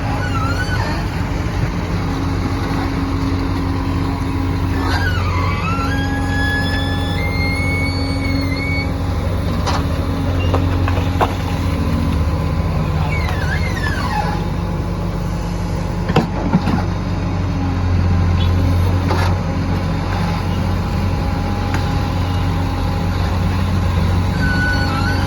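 Excavator's diesel engine running steadily at high throttle while it works, with high squeals and whines that slide up and down in pitch and a few sharp knocks.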